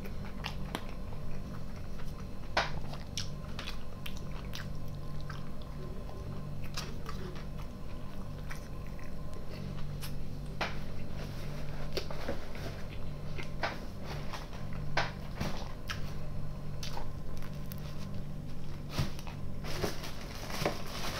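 A man chewing forkfuls of salad close to the microphone, with short mouth clicks and smacks at uneven intervals that come thicker near the end. A steady low hum runs underneath.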